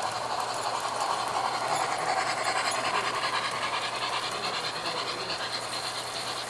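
Model Illinois Central steam locomotive and its cars running along the layout track. The sound grows louder about two seconds in, then eases off.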